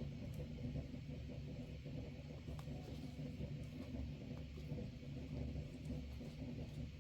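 Steady rain with a constant low rumble under a soft hiss, and a few light ticks of drops.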